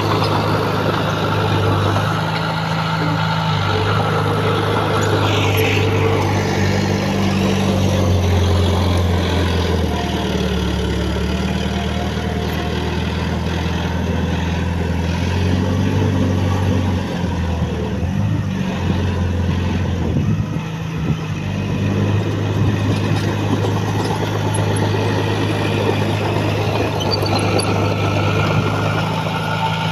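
Heavy diesel earthmoving machine engine running under varying load, its pitch stepping up and down several times.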